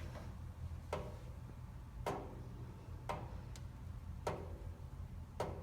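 Kenmore gas water heater making sharp pops, five in a row at about one a second, over a steady low hum. The owner calls these explosion noises and does not know their cause.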